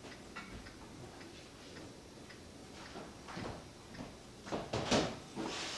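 Faint, regular ticking of a mechanical clock, with a few louder rustling handling sounds near the end as glue is brushed onto the bellows paper.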